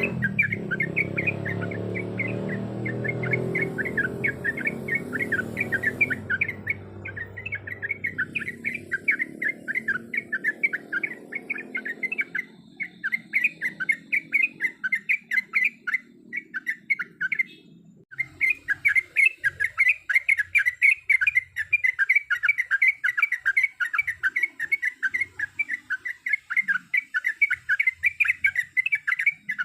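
Trucuk (yellow-vented bulbul) chirping in a fast run of bright notes, about four a second, with a brief break a little past the middle. A low rumble sits under the first several seconds.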